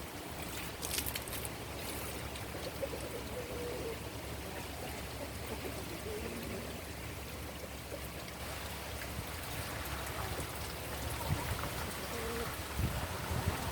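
Water running steadily into a container, filling the chickens' water jug.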